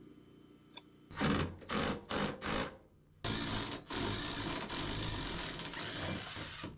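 Ratchet wrench working on a fastener: four short rasping strokes about half a second apart, then a longer continuous ratcheting rattle with one brief break.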